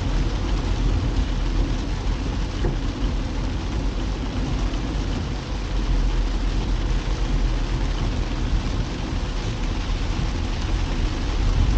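A car driving in the rain: a steady wash of rain and wet-road noise over a low, even rumble from the car.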